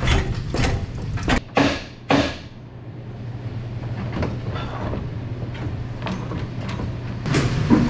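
A Chevrolet Suburban's exhaust pipe being shaken and worked back by hand after its clamp has been loosened: metal clanks and knocks, heaviest in the first couple of seconds, with lighter ticks after. A steady low hum runs underneath.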